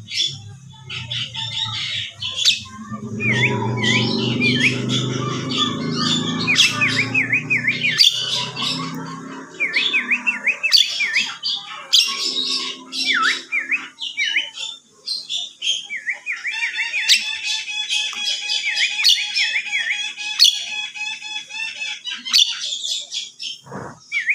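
Javan myna whistling: runs of short, quick, dipping whistled notes, interspersed with sharp clicking notes. A low hum sits underneath for the first several seconds.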